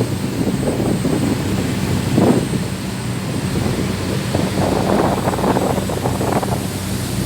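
Tour boat's engine running with a steady low drone, with wind buffeting the microphone on deck.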